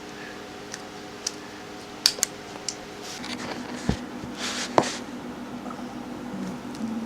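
A handful of sharp plastic clicks and taps from handling a homemade pen shooter while loading 6mm airsoft BBs into it, with a short rustle near 5 s in. A steady low hum runs underneath.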